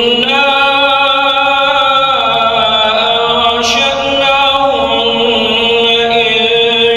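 Quran recitation: a single voice chanting in long, held melodic notes, stepping to a new pitch about every two seconds.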